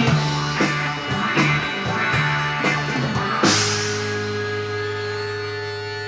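Psychedelic rock band with guitars and drum kit playing the song's ending: drum hits about every three-quarters of a second, then about three and a half seconds in a final crash and a held chord left to ring and fade.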